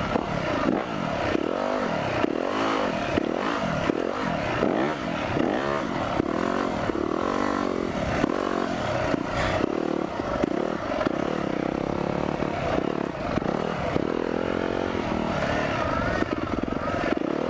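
Four-stroke single-cylinder dirt bike engine being ridden, its pitch rising and falling again and again as the throttle is opened and closed, about once a second.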